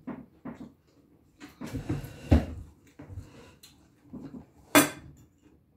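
Close-up eating sounds: chewing and mouth smacks on a mouthful of fried rice, with a few soft knocks and one sharp click about five seconds in.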